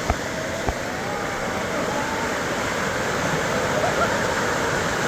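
Waterfall water rushing steadily, with faint distant voices and two short knocks near the start.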